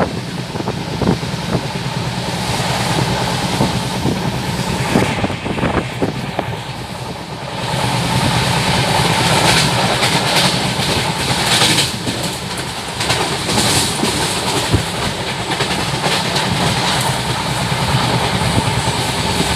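Passenger train coach running along the track, heard through an open window: a steady rumble of wheels on rail with rushing air and occasional clicks of rail joints, growing louder about a third of the way in.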